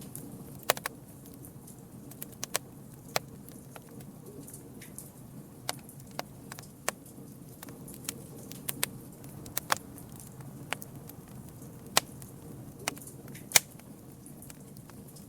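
Campfire burning: wood crackling with more than a dozen sharp, irregular pops over a steady low rushing noise, the loudest pop near the end.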